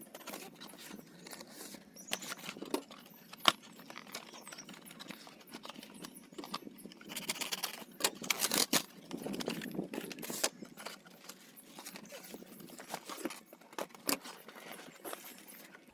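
A delivery package being opened and handled: irregular rustling, scraping and crinkling with scattered sharp clicks, the sharpest about three and a half seconds in and the busiest handling between about seven and nine seconds.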